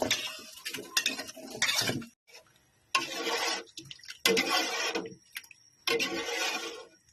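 Kitchen cooking sounds of pots, utensils and water, in a string of short bursts about a second apart.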